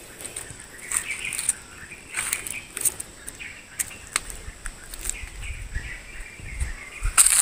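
Birds chirping over an outdoor background, with a handful of short, sharp crackles and clicks, the loudest a little before the end, and a low rumble in the second half.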